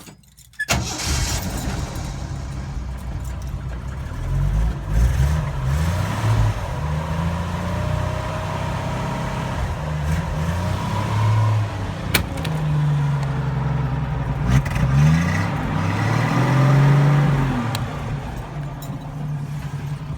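1981 Jeep CJ7's AMC 4.2-litre (258) inline-six with breaker-points ignition, cold-started at 15 degrees: the starter cranks about a second in and the engine catches quickly, a few seconds later. It then runs on choke with revs rising and falling, and steadies near the end.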